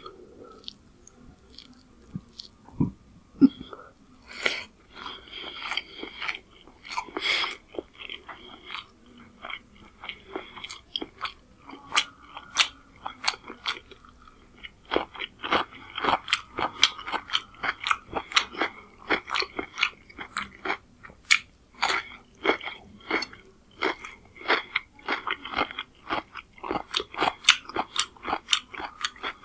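Close-miked chewing and wet mouth clicks of someone eating rice and spicy chicken curry by hand, many short clicks in quick succession. The clicks are sparse for the first few seconds, then come almost without a break.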